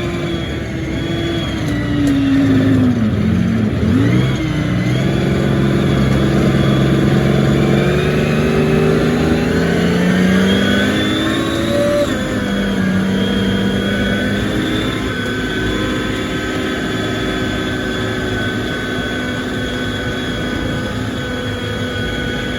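A motor engine running, its pitch dropping about three seconds in and then rising steadily for several seconds as it revs up, before settling into a steadier drone.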